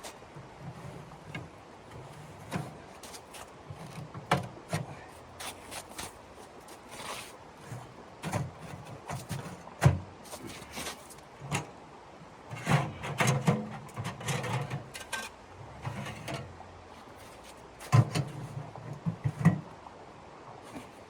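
Irregular knocks and clicks, some sharp and loud, with short low thuds between them; the loudest fall about halfway through and twice near the end.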